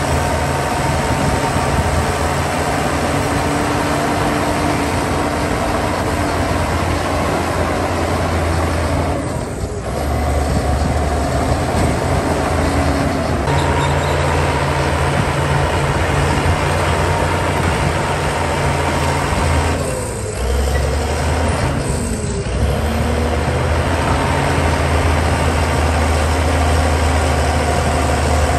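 Heavy diesel engine of earthmoving machinery running steadily, its note shifting a few times, with two brief dips in loudness.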